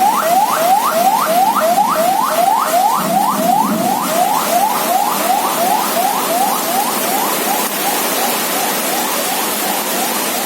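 Steady hiss of heavy rain and wind, with an electronic alarm repeating a quick rising whoop about three or four times a second that grows fainter in the second half.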